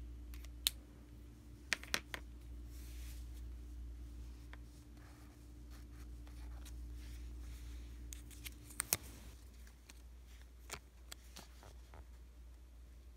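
Stickers being peeled from their backing sheet and pressed onto paper: soft papery rustles and a scattering of sharp clicks and taps, over a low steady hum that stops about nine seconds in.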